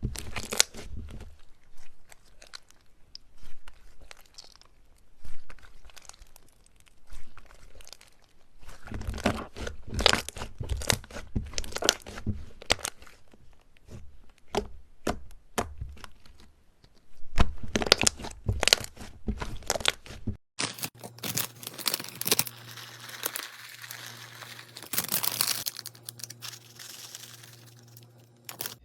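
Slime being squeezed and pulled by hand, giving irregular clusters of crackles and crunchy tearing pops. About 20 seconds in, the sound cuts to a denser, continuous crinkling crackle over a faint low hum.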